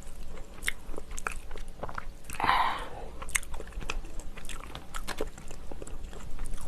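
Close-up chewing and biting of kimchi: wet, crunchy mouth sounds with many small clicks, and one louder breathy rush about two and a half seconds in.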